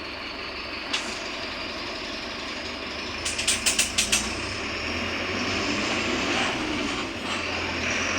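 Mercedes-Benz OF-1721 BlueTec 5 bus running, its diesel engine and road noise steady and then getting louder in the second half. There is a sharp click about a second in and a quick run of about six sharp clacks in the middle.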